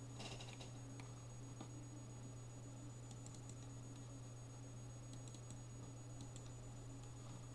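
Pen drawing on paper: faint scratching, light taps and clicks scattered through, over a low steady electrical hum.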